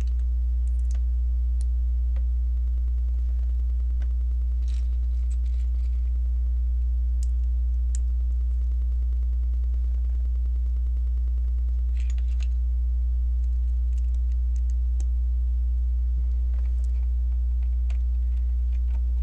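Plastic Lego bricks clicking and rattling now and then as pieces are handled and pressed together, over a steady low hum.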